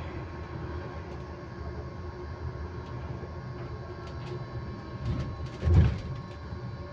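Electric bus on the move, heard from inside: a steady whine held on a constant pitch over the low rumble of the ride. A few light rattles, and a loud thump from a jolt a little before the end.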